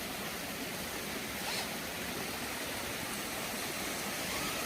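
Steady rushing of water from a waterfall stream.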